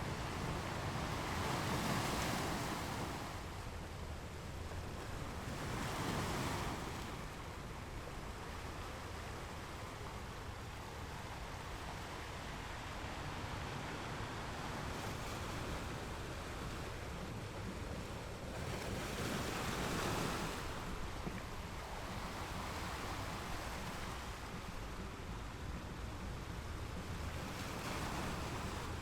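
Ocean waves breaking on rocks, a steady wash of surf with louder breakers swelling and fading about 2, 6, 20 and 28 seconds in.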